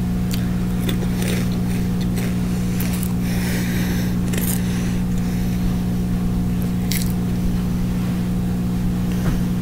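Someone biting and chewing crunchy chocolate-churro-flavoured Cheetos: a string of irregular crisp crunches, most of them in the first half, over a steady low electrical hum.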